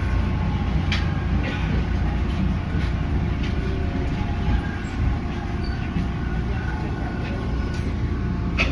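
Steady low rumble of a moving transit vehicle, a city bus or subway train, heard from inside the cabin, with faint steady tones above it and a few light clicks and knocks.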